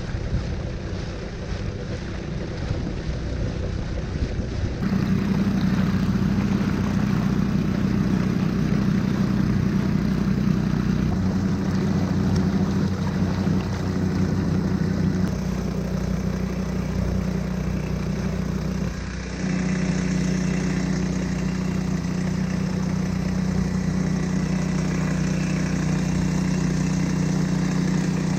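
The small motor drive of a motorized kayak running steadily over wind and water noise. It gets louder about five seconds in, dips briefly about two-thirds of the way through, then runs on steadily.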